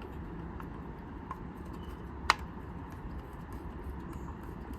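Light clicks and taps of small carburetor parts being handled and fitted, with one sharper click a little over halfway through, over a low steady hum.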